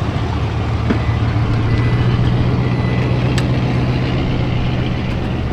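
Truck engine running steadily with an even low drone, and a faint click about three and a half seconds in.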